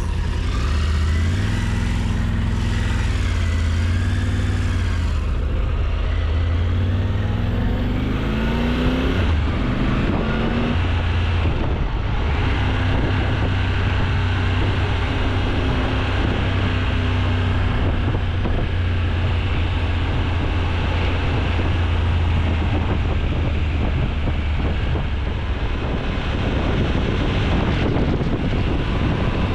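Triumph Tiger motorcycle's three-cylinder engine pulling hard through the gears: the engine note climbs and drops with each shift over the first ten seconds or so. It then settles into steady cruising, with wind rushing over the microphone.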